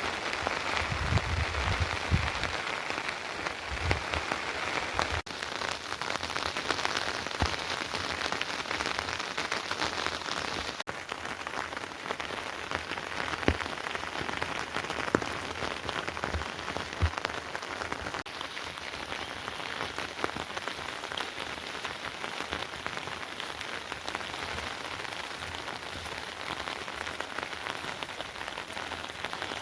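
Steady rain falling, an even hiss with louder single drops striking now and then.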